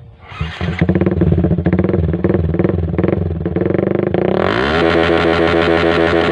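Yamaha Vixion single-cylinder four-stroke motorcycle engine running loud through an aftermarket racing exhaust. It idles with a pulsing exhaust beat, is revved up quickly about four seconds in, and is held at higher revs, with a brief dip in revs near the end.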